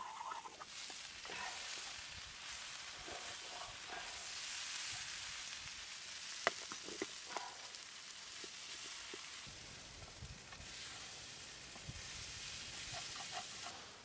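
Chicken, red pepper and onion sizzling steadily in a frying pan as they are stirred with a spatula, with a few sharp clicks in the middle. The sizzling cuts off suddenly at the end.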